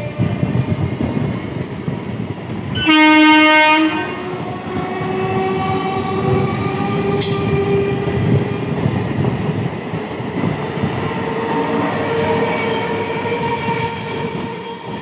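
Suburban electric multiple-unit local train passing close by at speed, its wheels running noisily over the rails throughout. About three seconds in, a train horn sounds one loud blast lasting about a second.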